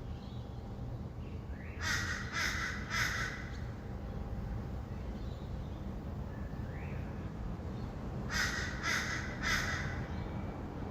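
A bird giving harsh, raspy calls in two series of three evenly spaced calls, over a steady low hum of distant city traffic.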